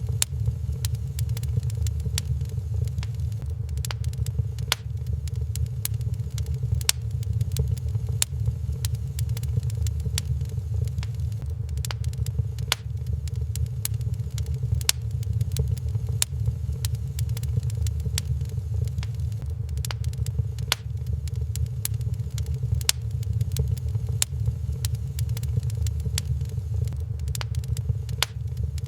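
Wood fire crackling in a fireplace: many sharp, irregular pops and clicks over a steady low rumble.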